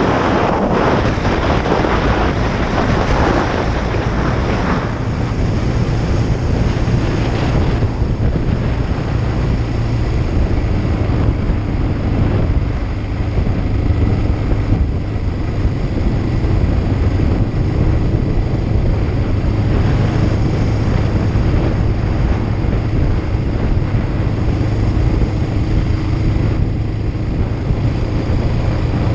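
Kawasaki Ninja 500 (EX500) parallel-twin engine running at a steady speed under heavy wind rush on the microphone, the wind loudest in the first few seconds.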